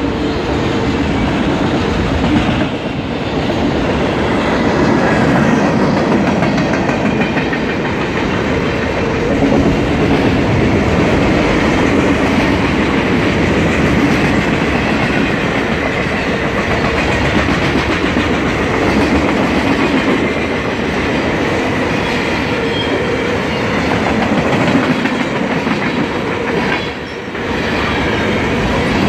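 Freight train passing, its wagons running over the rails with a loud, steady rattle and rumble.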